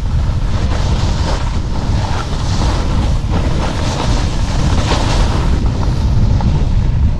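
Wind buffeting the camera microphone while snowboarding downhill, a constant rumble, with a snowboard scraping over the snow in repeated swells of hiss.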